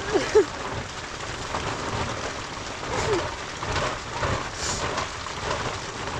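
Steady hiss of a winter storm, precipitation and wind. A few short voice-like cries sound near the start and again about three seconds in.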